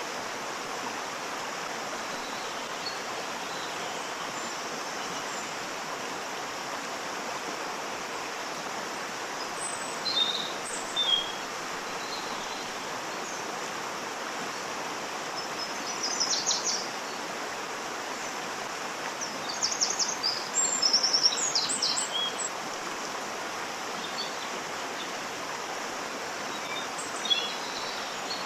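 Steady rush of a waterfall. Birds chirp over it several times, in short bursts of calls, most strongly about two-thirds of the way through.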